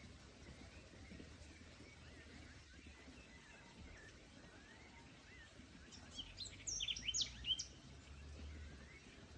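Forest birds chirping: faint short calls throughout, then a quick run of louder, sharp high chirps about six seconds in, over a low steady background hum.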